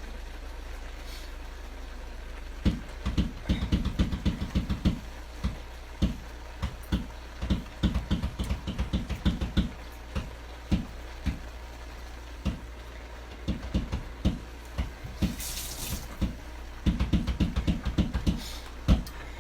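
A spoon stirring and prodding wet, cooked-down cabbage and kale in a pot: clusters of soft low thuds in quick succession, with a brief hiss about three-quarters of the way through, over a steady low hum.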